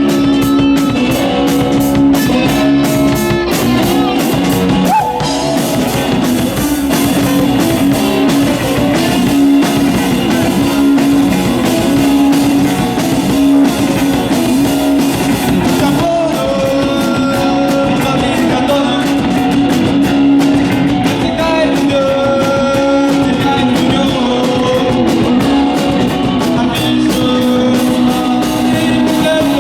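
Live rock band playing a song, with guitars over a drum kit.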